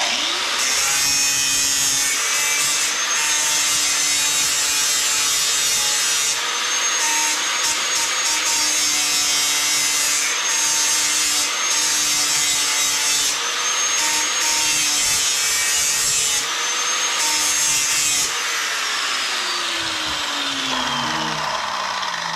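An electric grinder spins up and grinds the steel edge of a lawn mower blade in several passes, the harsh grinding noise breaking off briefly between passes over a steady motor hum. Near the end it is switched off and the motor winds down, its pitch falling.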